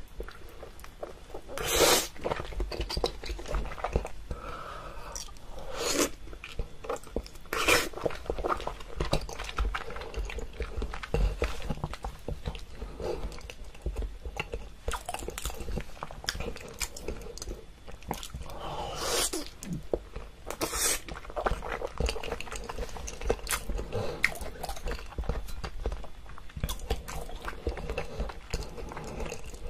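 A person chewing and biting food close to the microphone: irregular mouth clicks, with a handful of louder bites spread through.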